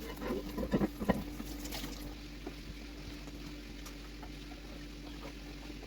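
Microwave turntable being washed in a kitchen sink: water running and a few knocks of the plate against the sink in the first two seconds, then the water stops and only a faint steady hum remains.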